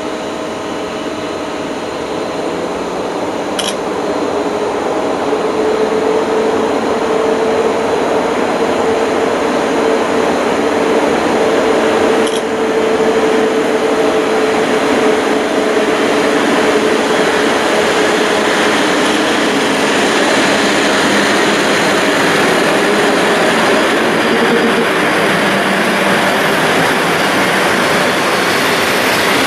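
Polish EP07 electric locomotive hauling a rake of passenger coaches into the station, its running noise growing louder as it nears and holding steady. A steady hum sounds through the middle, and the coaches roll past at the end.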